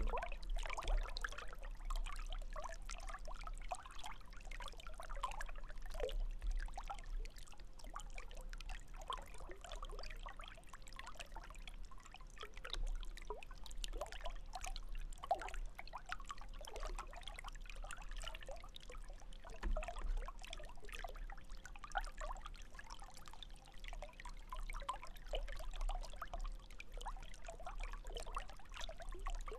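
Water trickling and splashing in small irregular bubbles and drips, with a faint steady hum underneath.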